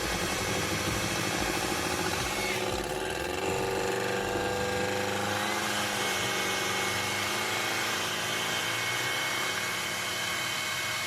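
Hair dryer running steadily, blowing hot air to melt ice that has jammed the freezer's evaporator fan. Its pitch shifts about two and a half seconds in and again a few seconds later.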